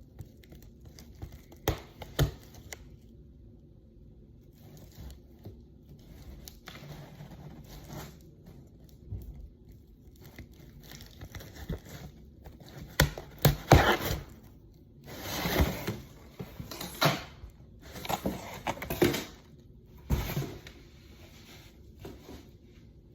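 Doll packaging being pulled open and handled: irregular rustling, crinkling and tearing of the wrapping, with two sharp clicks about two seconds in. The bursts get louder and busier in the second half.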